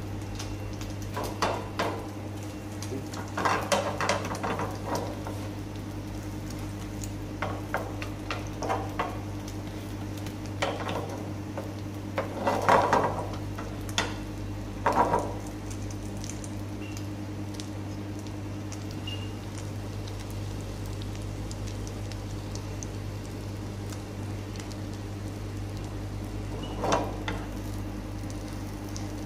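Battered chicken breast shallow-frying in oil in a non-stick pan, sizzling steadily. A slotted metal spatula scrapes and pushes against the pan in short bursts, several in the first half and once more near the end.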